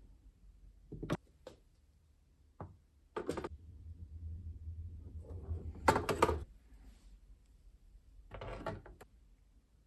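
Clicks and knocks of hard laptop housing plastic being handled, several separate ones with the loudest cluster about six seconds in.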